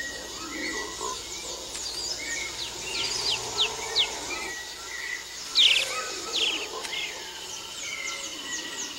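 Amazon rainforest ambience: many short, quick bird chirps and calls over a steady high insect drone.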